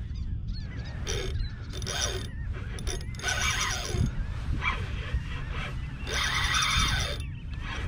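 Fishing reel ratcheting in several separate bursts as line is pulled against the drag by a big bluefish, over a steady low rumble.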